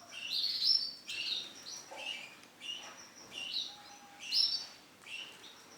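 Female yellow canary chirping: a series of short, high call notes repeated irregularly, about one or two a second.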